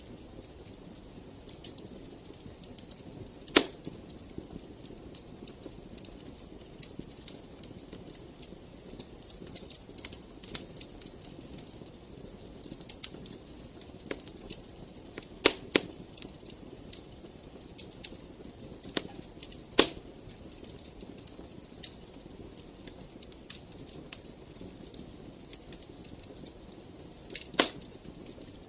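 Wood fire in a fireplace crackling, many small ticks over a soft steady hiss, with four louder sharp pops: one a few seconds in, two around the middle and one near the end.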